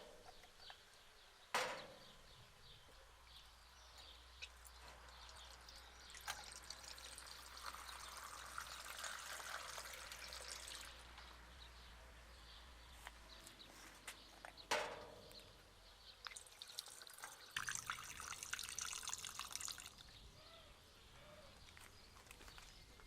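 Liquid pouring and trickling in two stretches, with two sharp knocks, one about a second and a half in and one a little past the middle.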